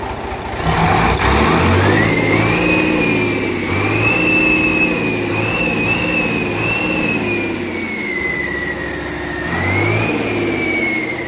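Weichai WD615 six-cylinder diesel engine revved up about a second in and held at high revs, with a high whine that rises and slowly sags, then revved again near the end before the revs begin to drop.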